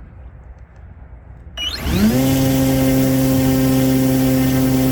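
Electric RC plane motor and propeller run up on the ground: about a second and a half in it spools up with a quick rising whine, then holds a steady, even pitch.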